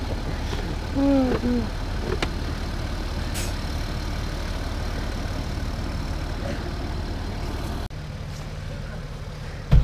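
A 4x4's engine running steadily at low revs while the vehicle sits stuck on a muddy slope. A sharp thump comes near the end.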